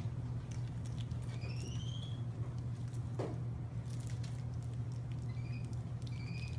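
Short high-pitched rising squeaks from a small animal, a few times, over a steady low hum with light scattered ticks.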